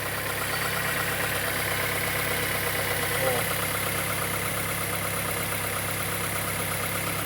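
Fiat Fire 1.0 petrol four-cylinder engine idling with a rapid, even mechanical ticking ('tec tec tec'). The mechanic suspects the timing belt is out of time; if it is not, he takes the noise for a sign of internal wear such as piston or connecting-rod play.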